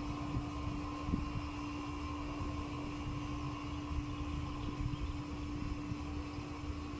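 A steady mechanical hum holding two constant pitches, over a low rumble.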